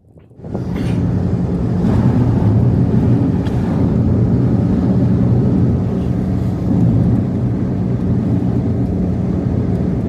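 Strong blizzard wind buffeting the microphone: a loud, steady, low rushing noise that starts suddenly about half a second in.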